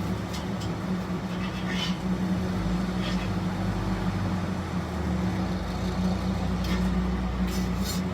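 Steady machine hum from equipment running in a food truck, with a few short, faint hissing scrapes on top.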